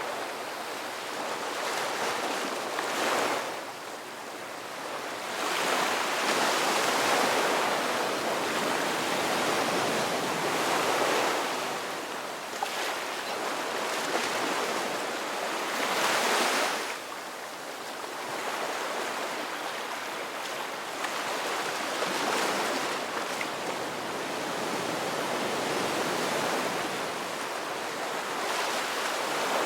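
Ocean waves breaking and washing on a shore, the surf swelling louder with each wave, strongest about six to eleven seconds in and again around sixteen seconds.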